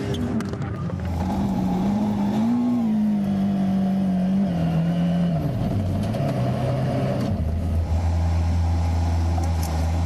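Rally car engine running under load, its pitch rising and falling, then dropping lower about halfway through as the car slows. A lower steady drone takes over for the last couple of seconds.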